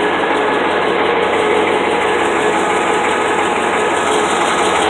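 The rebuilt engine of a 1974 International Harvester track loader running steadily, an even mechanical sound with no change in speed. The owner says the engine has been balanced and runs smooth, without rattle or shake.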